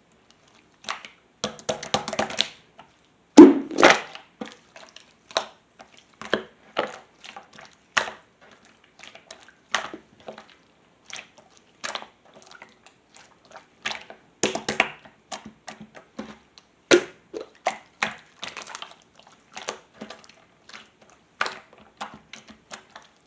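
Glossy water-pudding slime being squeezed and pressed by hand, making irregular wet clicks and pops, sometimes several in quick succession.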